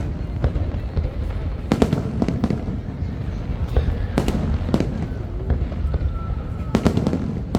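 Aerial fireworks going off: sharp bangs every second or two, two in quick succession near the end, over a steady low rumble of further bursts.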